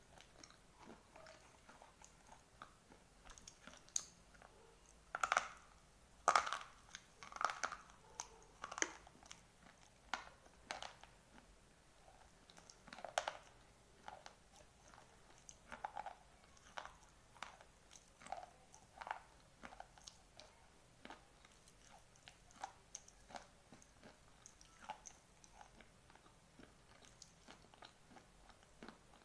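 A person chewing dry slate pencil: gritty crunches and chewing, loudest and densest between about 5 and 9 seconds in, with a sharp crunch around 13 seconds, then lighter, steadier chewing.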